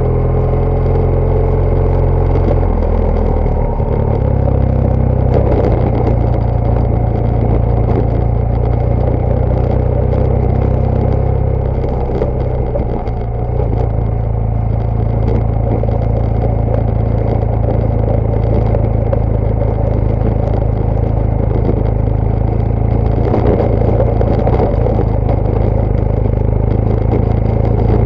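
BMW GS Adventure motorcycle's boxer-twin engine running under load while riding off road, its note shifting with throttle and gear changes about 3 to 4 seconds in and dipping briefly around 13 seconds in. Scattered knocks and rattles run through it.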